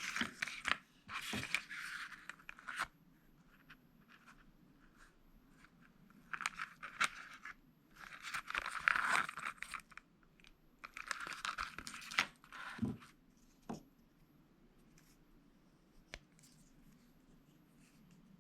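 Packaging being torn and crinkled by hand in three bursts of rustling, followed by a few sharp clicks and a quieter stretch.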